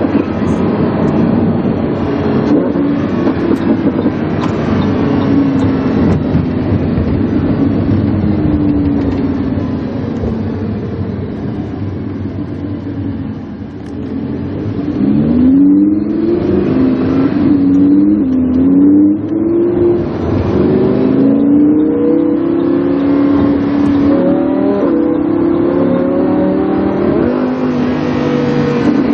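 Lamborghini Huracán's V10 engine breathing through a PowerCraft aftermarket exhaust, heard from on board. For about the first half it runs at a steady, rough note. It eases off briefly, then from about halfway it accelerates hard, its pitch rising and dropping back several times as it shifts up through the gears.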